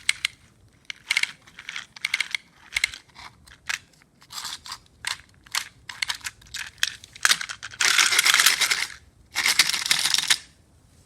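Snow crunching: a run of short crunches, then two longer crunching scrapes of about a second each near the end.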